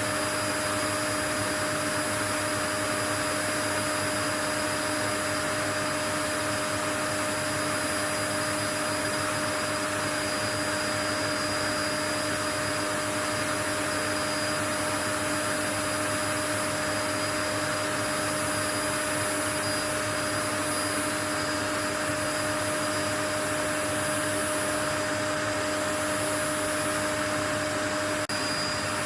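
Steady white noise, a constant machine-like hiss with a few faint steady whining tones running through it, unchanging throughout.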